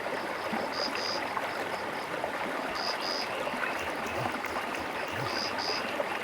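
Stream water flowing steadily, with a frog calling in pairs of short high notes about every two seconds.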